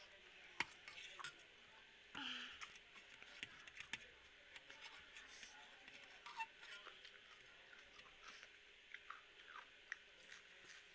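Faint close-up eating sounds: chewing instant noodles, with scattered small clicks and taps such as a metal fork makes on a steel plate.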